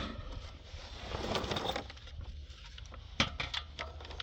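Quiet steady low hum, with a few short, sharp clicks about three seconds in.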